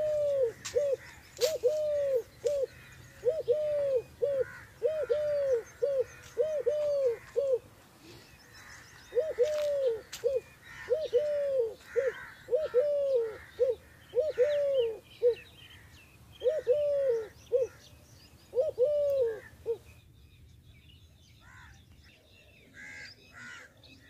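A bird calling over and over in loud, arched, hooting notes, mostly a long note followed by a short one, in runs with brief pauses. The calling stops near the end. Fainter, higher chirping of other birds goes on behind it.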